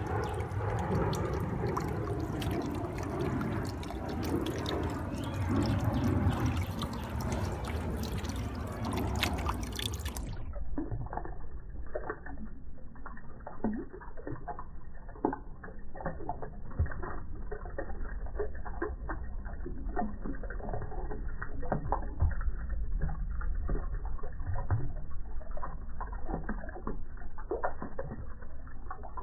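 Floodwater rushing and pouring along a swollen creek, a steady wash of water noise with scattered clicks and knocks. From about ten seconds in the sound turns muffled, with its treble cut off.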